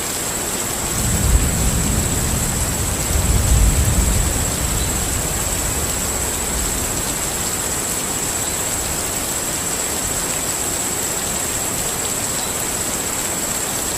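Steady rushing noise of a sleep ambience track, with a thin high tone held over it. Two deep low rumbles swell up, about a second in and again around three to four seconds in, the second one the loudest.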